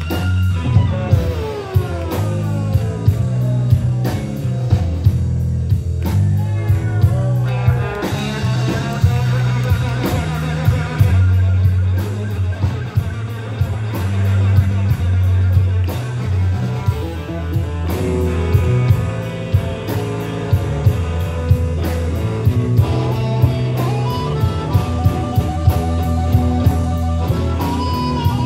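Live band music: a guitar lead with bending, gliding notes over a steady drum beat and heavy low notes.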